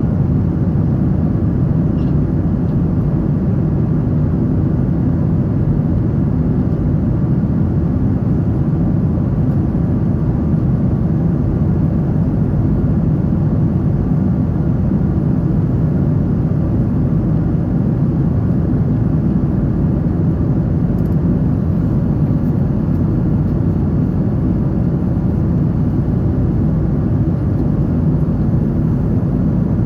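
Steady, even low rumble of engine and air noise inside the cabin of a Boeing 777-300 airliner.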